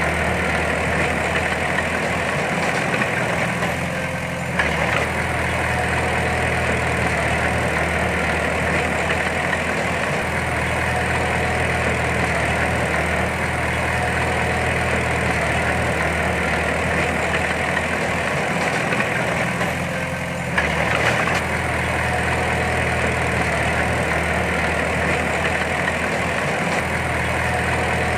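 Heavy diesel engine of earthmoving machinery running steadily with an even drone. Twice, about four and twenty seconds in, the engine note dips briefly and then comes back with a sharp knock.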